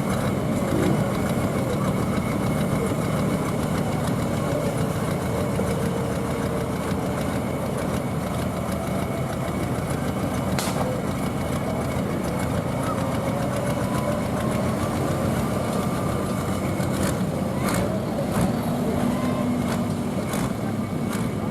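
Diesel engine of a pulling tractor running steadily through a pull, its pitch drifting slightly. A few sharp clicks come near the end.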